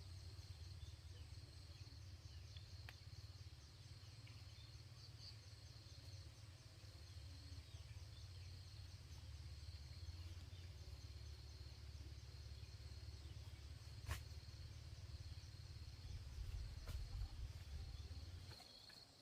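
Insects trilling steadily in a high, thin drone with rapid even pulses, over a low rumble that fades near the end. A single sharp click about fourteen seconds in.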